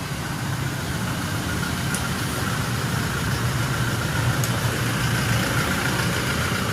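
Steady low rumble of motor vehicle engines, with a couple of faint ticks.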